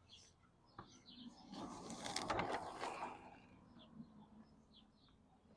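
Small birds chirping faintly in short, high calls. About a second and a half in there is a louder rustling, scraping noise lasting over a second.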